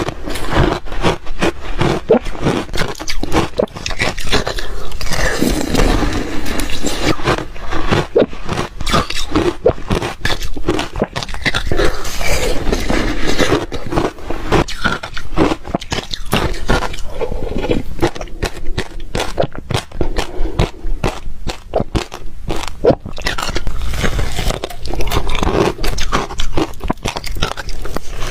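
Ice being bitten and chewed close to the microphone: loud, dense, irregular crunching and crackling.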